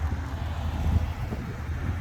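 Low, steady rumble of classic cars driving past in a slow procession, mixed with wind buffeting the microphone.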